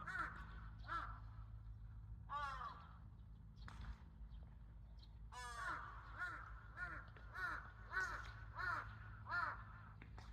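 Crows cawing: a few scattered single caws, then from about five and a half seconds in a run of about seven caws in a row, a little more than half a second apart.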